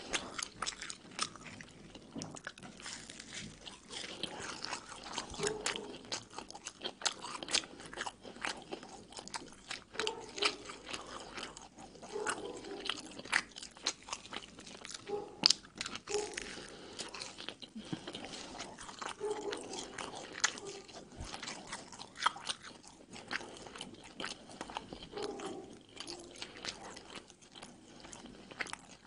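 Close-miked eating of Egyptian hawawshi, crusty baked bread stuffed with spiced minced meat: bites and steady chewing with many crisp crunches.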